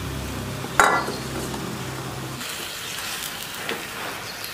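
Marinated chicken sizzling in oil and masala in a clay pot, stirred with a wooden spatula, just after being added to masala fried until the oil separates. A single sharp knock just under a second in is the loudest sound, and a low steady hum cuts off about halfway through.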